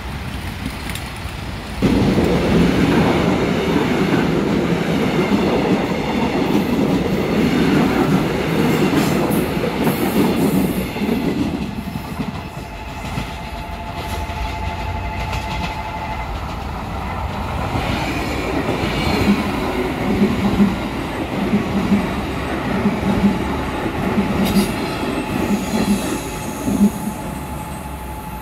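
Trains at a railway level crossing. A loud rumble of wheels on rails starts about two seconds in and fades around eleven seconds. A steady two-note crossing warning tone follows. In the second half, evenly spaced wheel clatter over rail joints comes as a KTX-Eum electric multiple unit approaches.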